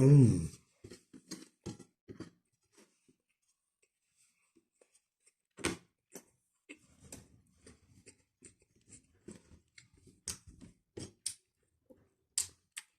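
Close-miked eating sounds: wet chewing, lip smacks and mouth clicks of someone eating chicken adobo and rice by hand, coming irregularly. It opens with a short, loud voiced sound from the eater, falling in pitch.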